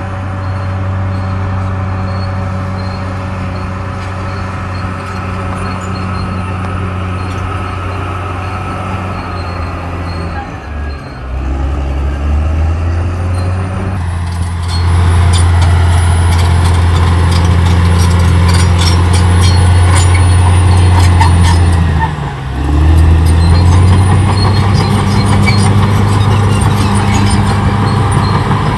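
Caterpillar D6R XL bulldozer's diesel engine running steadily under load, its note dipping briefly twice. From about halfway it is louder, with a busy rattle of metallic clicks over the engine.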